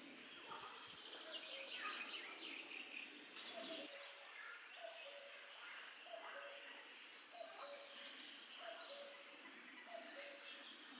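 Faint wild birdsong: scattered high chirps, and from about four seconds in a two-note call, the second note a little lower, repeated steadily.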